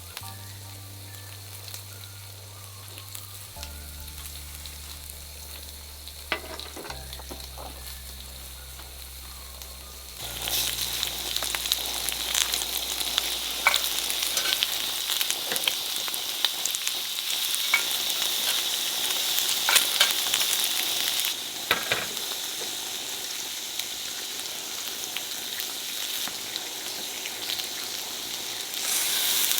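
Food frying in a hot pan: a faint sizzle that jumps to a loud, steady sizzle about ten seconds in, with a few sharp clicks. Low sustained notes, changing every few seconds, sound under the first part.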